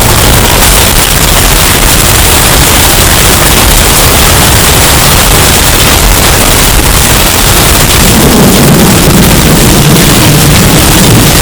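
Hurricane wind sound effect, bass boosted and overdriven into heavy distortion: a loud, constant rush of noise, with a deeper rumble swelling about eight seconds in.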